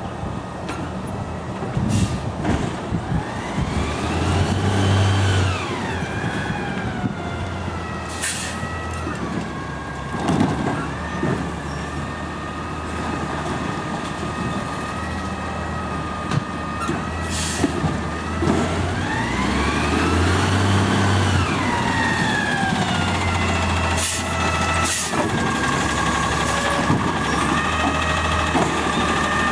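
Garbage truck engine revving up and settling back down twice, about fifteen seconds apart, as it drives the hydraulics, with several short, sharp air hisses in between.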